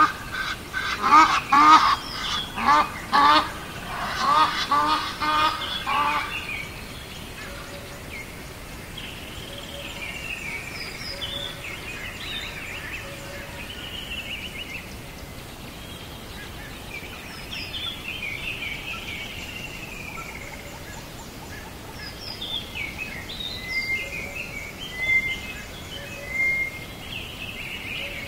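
Birds calling: a loud rapid series of repeated calls for about the first six seconds, then softer, higher, scattered calls.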